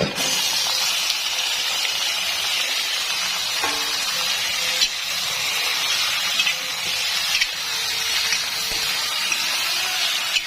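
Hot oil sizzling steadily as food deep-fries, with a few sharp pops and crackles.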